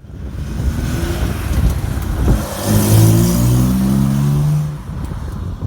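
Car engine accelerating: a low rumble, then from about two and a half seconds in the engine note climbs in pitch for around two seconds before dropping away near the end.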